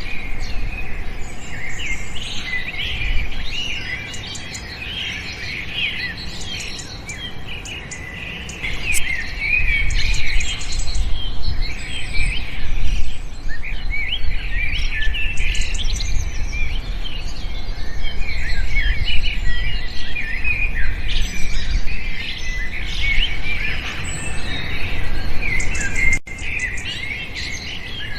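Many small birds chirping and twittering together in a dense chorus of short, high, overlapping chirps, over a low rumble. The chorus gets louder about nine seconds in.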